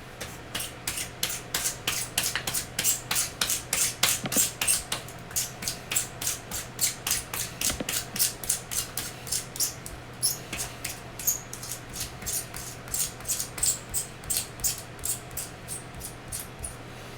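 Pencil sharpener grinding a pencil: fast, even scraping strokes, about three to four a second, kept up without a break.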